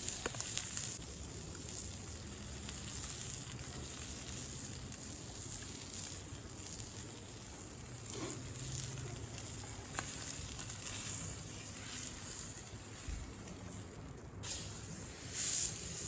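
Steak sizzling hard in a very hot pan over campfire coals: a steady frying hiss with a few sharp pops, the pan too hot so the steak is cooking too fast.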